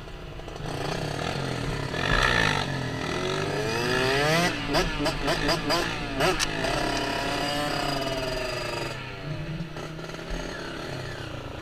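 Small off-road vehicle engine revving. The pitch climbs over a couple of seconds, then comes a run of quick throttle blips rising and falling, and after that the engine settles into steadier running.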